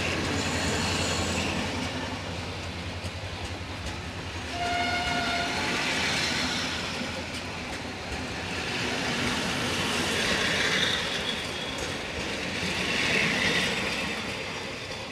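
Passenger train coaches rolling past close by as the train pulls out, wheels running on the track with a steady rumble. A short horn blast sounds about five seconds in.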